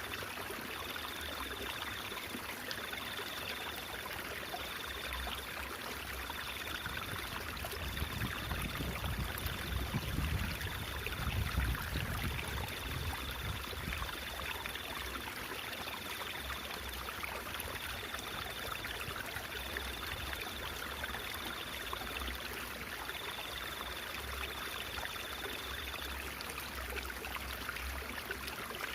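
Stream water trickling and babbling steadily, with a faint high tone coming and going in short repeated spells, and a low rumble that swells for a few seconds in the middle.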